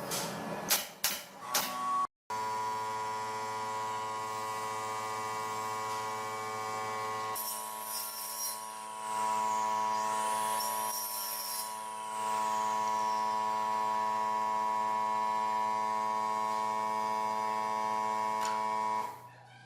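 A steady electronic drone of several held tones sounding together, shifting twice in the middle, after a few sharp clicks near the start.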